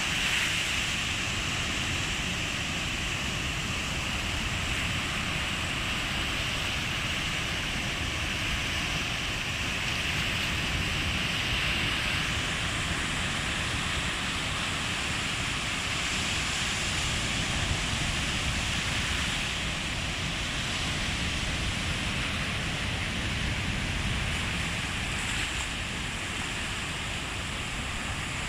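Calm sea: small waves washing in a steady hiss, with no single breaker standing out, over a low rumble of wind on the microphone.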